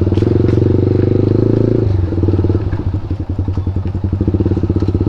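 KTM Duke 390 single-cylinder engine running through an Akrapovic exhaust with the dB killer removed. It holds a higher steady fast idle, then drops about two seconds in to a slower, lumpy idle with each firing pulse distinctly audible.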